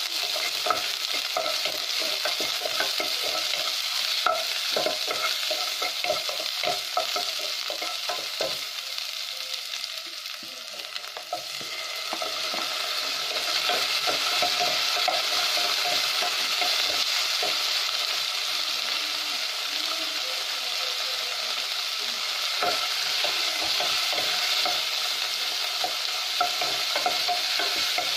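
Onion, garlic and tomato sizzling as they sauté in oil in a non-stick pot, with a wooden spatula stirring and scraping against the pan in quick repeated clicks. The sizzle dips briefly near the middle, then runs louder from about halfway through, once the tomato is in.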